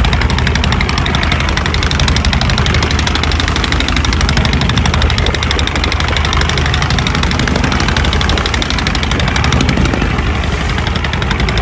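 Boat engine running steadily, with a rapid, even pulse.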